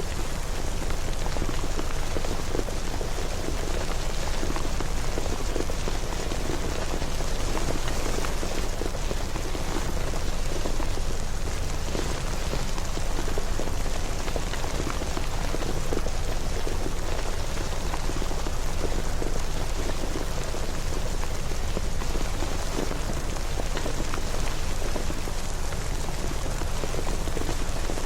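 Steady rain falling, with dense patter of drops on a surface.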